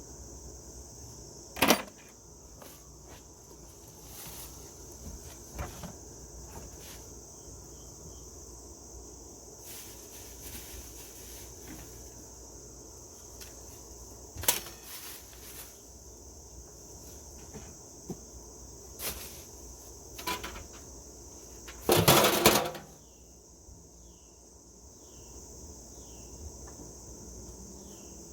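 Steady high-pitched drone of insects, with scattered sharp knocks and clunks, a louder rattling clatter lasting about half a second about 22 seconds in, and a few short falling chirps near the end.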